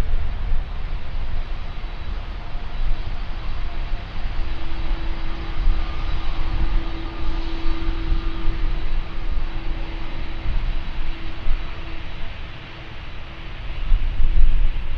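Jet airliner's engines: a steady rumbling roar with a faint whine held for several seconds in the middle.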